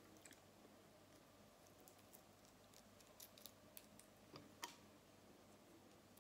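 Near silence, with a few faint, scattered clicks from shrimp shells being handled and peeled, the clearest two a little over four seconds in.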